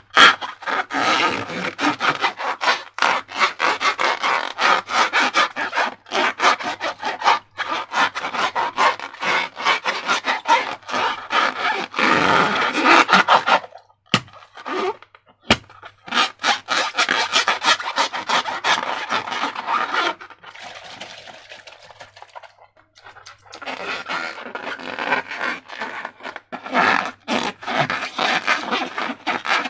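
Rubber balloons and slime being handled and squeezed by hand: a dense run of crackling, rubbing and squishing noises with many sharp clicks. It pauses briefly about halfway through and again around two-thirds of the way in.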